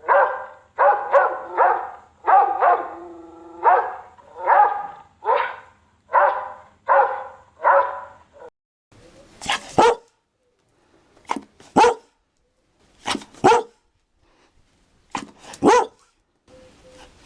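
Dog barking: a quick run of about a dozen barks over the first eight seconds, then, after a short pause, sharper barks coming in pairs about every two seconds.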